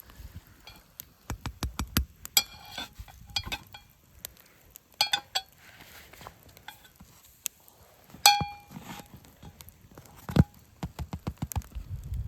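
Metal cookware and utensils clinking and knocking together, a few of the strikes ringing briefly with a clear tone, the loudest one past the middle, with a dull thump near the end.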